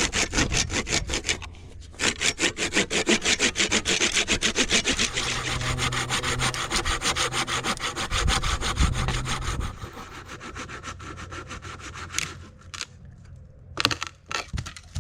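Hand saw cutting through firewood in fast, even back-and-forth strokes, with a short pause about a second and a half in. The strokes fade after about ten seconds, and a few separate knocks follow near the end.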